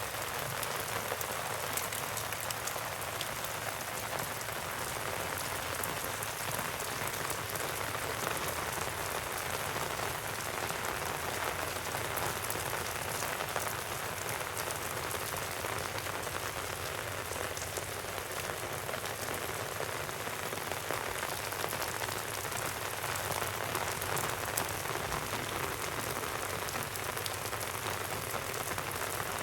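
Heavy rain falling steadily, a dense even hiss of drops with fine close patter.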